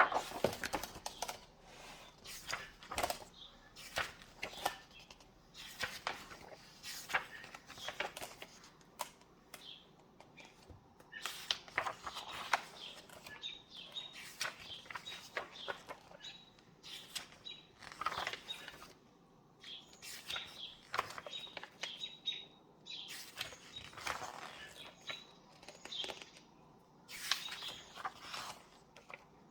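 Paper pages of a book being turned and handled, with many irregular rustling flips and swishes.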